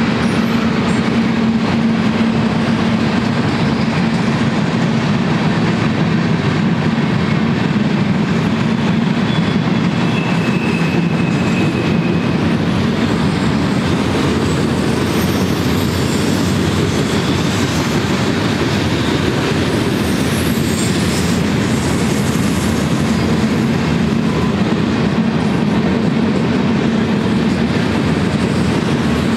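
Mixed manifest freight cars (tank cars, boxcars, covered hoppers) rolling steadily past: the continuous rumble and clatter of steel wheels on rail, with a faint brief wheel squeal about ten seconds in.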